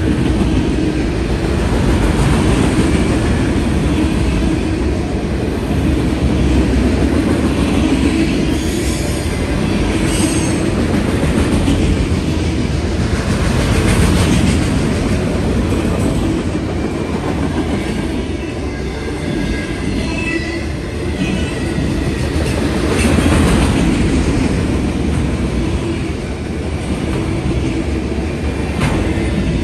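A freight train of autorack cars rolling steadily past, close by: a continuous rumble of steel wheels on the rails with clattering over the rail joints. A few brief, high wheel squeals come through, the clearest about two-thirds of the way in.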